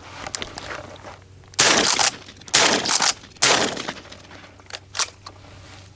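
Shotgun fired three times in quick succession, shots just under a second apart, at passing doves. A couple of sharp clicks follow near the end.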